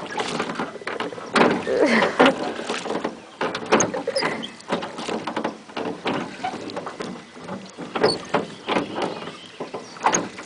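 A rowboat being rowed: oars dipping and splashing, with irregular knocks and water sloshing against the hull.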